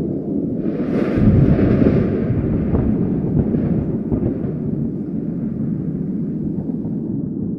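A thunder crack starts about a second in and rolls off into a long low rumble, over steady low wind.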